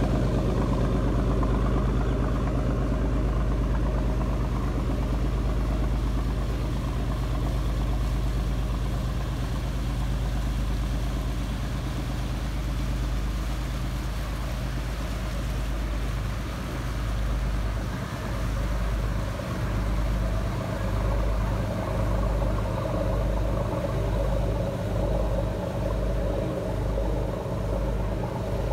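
Shrimp boat diesel engines running steadily, a loud low drone. From about sixteen seconds in, the low drone starts to pulse about once a second.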